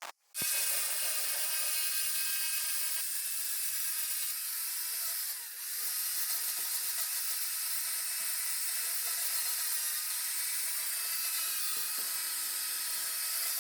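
A high-speed power tool running steadily with a high-pitched whir, briefly easing off about five seconds in.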